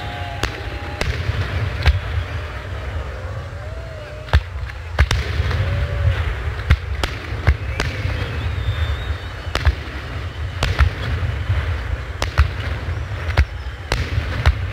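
Fireworks display: more than a dozen sharp bangs of bursting shells at irregular intervals, over a steady low rumble.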